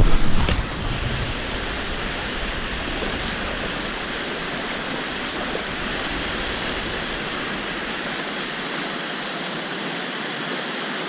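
Waterfall rushing steadily into a pool, a constant loud hiss of falling water. A few brief thumps or splashes come in the first second.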